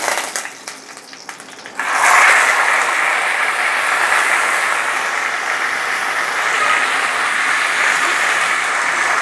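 Boiled taro leaves dropped into hot mustard oil in a wok: after a few light taps, a sudden loud sizzle starts about two seconds in and carries on steadily.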